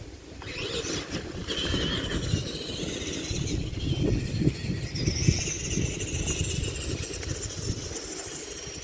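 Tamiya TXT-2 electric RC monster truck driving over rough ground. High motor and gear whine rises and falls over the rumble and crackle of its tyres, picking up about half a second in and easing off near the end.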